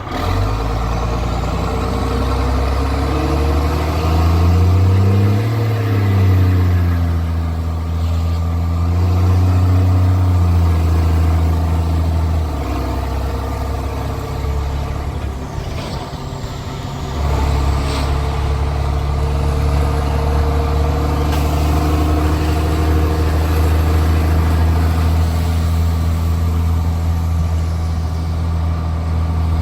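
Straight-piped Cummins C8.3 diesel in a school bus, under load: the revs climb and fall back through a gear change in the first few seconds, then hold steady. Just after the middle it eases off to a quieter run, and about five seconds later it comes back on hard and pulls steadily.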